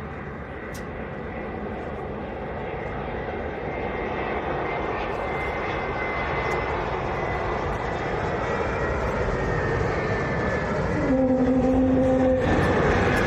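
Jet airliner engines growing steadily louder as the aircraft approaches, a broad roar with a high steady whine that sinks slightly in pitch. A short steady horn-like tone sounds for about a second near the end.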